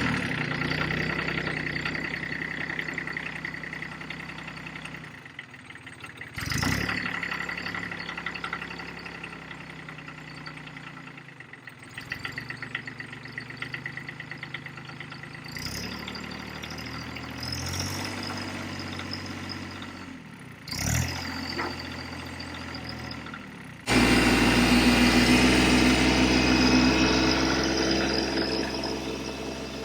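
A tractor engine running steadily, broken by several abrupt cuts, then much louder suddenly about three-quarters of the way through.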